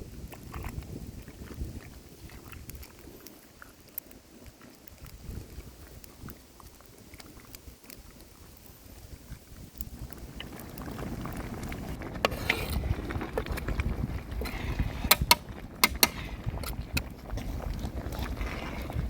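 Wind rumbling on the microphone outdoors, with a few sharp clicks and pops; the rumble grows louder from about ten seconds in.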